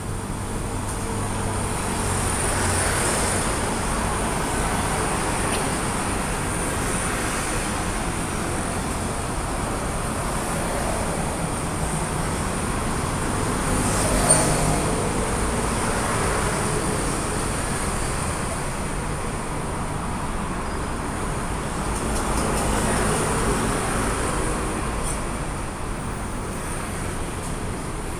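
Steady road-traffic noise, with vehicles swelling past three times.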